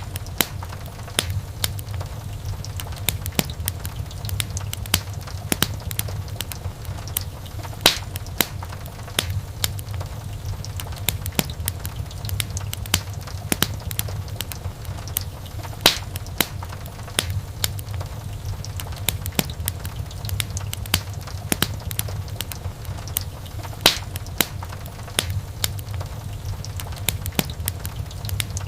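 Wood fire crackling in a fireplace: a constant patter of small snaps with a sharper, louder pop about every eight seconds, over a low steady rumble.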